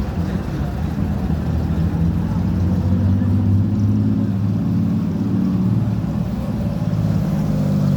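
Old car's engine running steadily at a low, even pitch.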